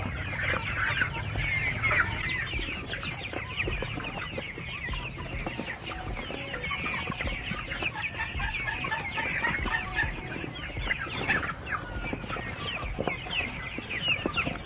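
A flock of chickens clucking and calling constantly while they eat superworms, with many short overlapping calls and scattered pecking clicks.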